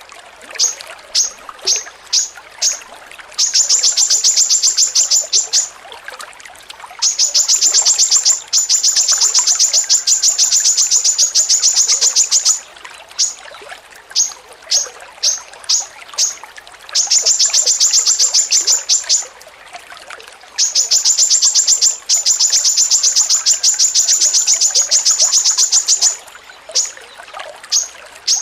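A songbird repeating sharp, high chip notes, broken four times by long, fast rattling runs of the same note that last several seconds each.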